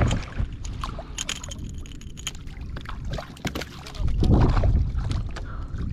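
Handling noise on a fishing kayak: scattered light clicks and knocks, with water sloshing against the hull and a low rumble of wind on the microphone.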